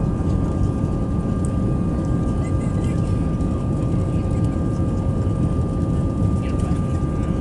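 Airbus A319 passenger cabin in flight: steady jet engine and airflow noise, mostly a low rumble, with a constant high whine from the engines running over it.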